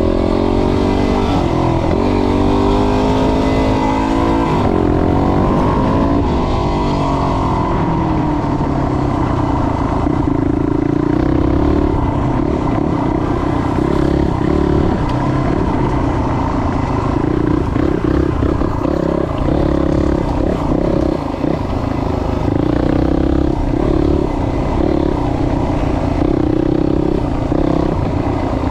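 Yamaha WR250's single-cylinder four-stroke engine running as the bike is ridden, its pitch rising and falling several times over the first seven seconds or so, then holding a steadier, slightly wavering note.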